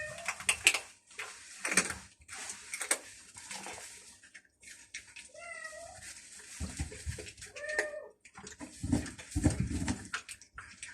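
Stray cats meowing three times, short calls near the start, about five and a half seconds in and about eight seconds in, among scattered clicking and rustling noises and a few dull thumps.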